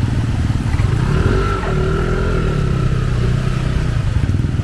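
Motor vehicle engine running close by, a steady low pulsing drone, with a faint wavering whine over it from about a second in until near the end.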